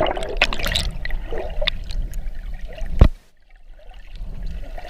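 Water sloshing and splashing close to the microphone while swimming in a waterfall pool, with a sharp knock about three seconds in, after which the sound drops out briefly before the water noise returns.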